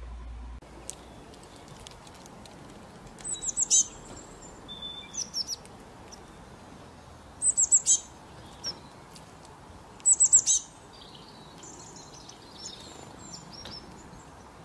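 Small songbird calling in bursts of three or four quick high chirps, a few seconds apart, with fainter single chirps between, over a faint steady outdoor hiss.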